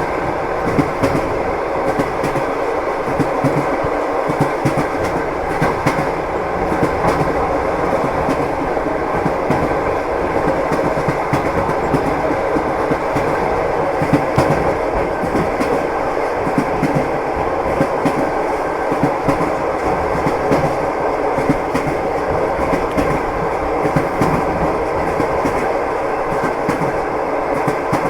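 Train wheels clacking over the rail joints as a train runs steadily: repeated clicks and clacks over a continuous rumble.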